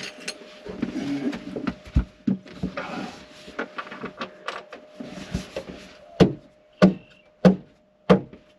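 Hand tools and small screws being handled: scattered clicks and light rattling, then about two-thirds of the way in a run of sharp, evenly spaced clicks, a little under two a second.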